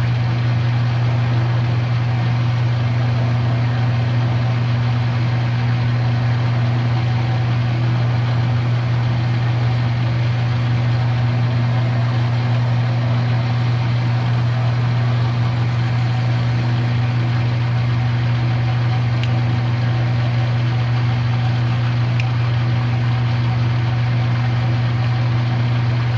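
Electric drill running steadily under load while boring a hole through metal, a constant low motor hum.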